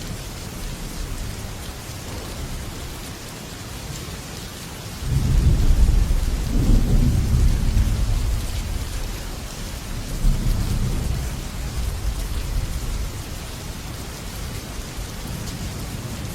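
Heavy rain falling steadily on a metal roof, with thunder: a deep rumble breaks in suddenly about five seconds in and rolls on for several seconds, swells again briefly, and builds once more near the end.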